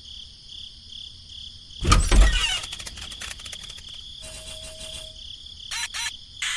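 Edited-in cartoon sound effects. About two seconds in comes a loud sudden burst that trails off into clicks. Later a short held tone with fast ticking plays as a question mark pops up, then two quick clicks near the end, all over a faint steady high hum.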